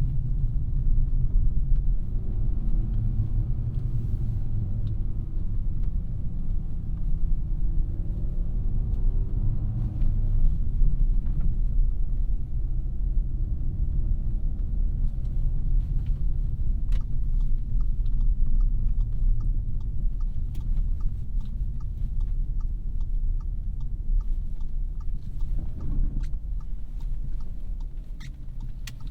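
2017 Audi A3's 2.0-litre turbocharged four-cylinder and its road noise while driving: a steady low rumble. From about halfway to near the end, a regular light ticking runs at roughly two ticks a second.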